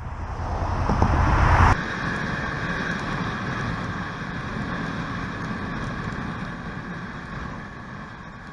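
Road vehicle travelling, with wind rushing over the microphone. Nearly two seconds in, the sound cuts abruptly to a steadier, quieter running noise that slowly fades.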